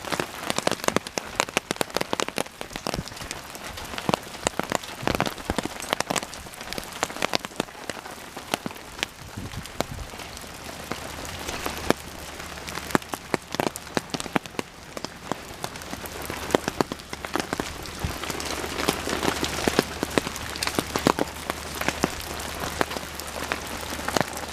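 Steady rain falling, with many sharp drops striking hard surfaces close by.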